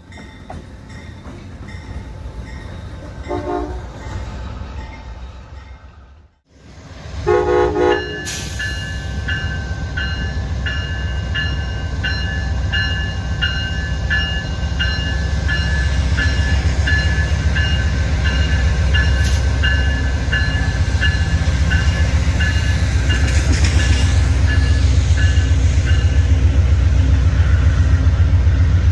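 Amtrak Downeaster with its GE P42 diesel locomotive: a short horn blast, then a bell ringing steadily about one and a half times a second over the low rumble of the diesel engine, which grows louder toward the end.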